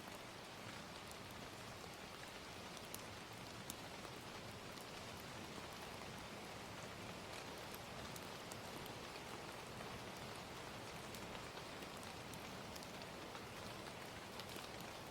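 Steady gentle rain, with faint scattered crackles and pops of a wood fire.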